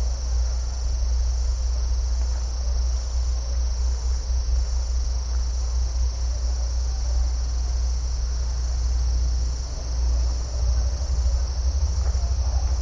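Crickets trilling in a steady, unbroken high-pitched chorus over a constant low rumble. Near the end a fast, even low pulsing joins in.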